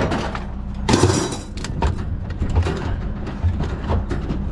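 Rummaging through a dumpster of trash: irregular clicks, rustles and knocks of items being shifted, with one loud clatter about a second in, over the steady hum of an idling vehicle engine.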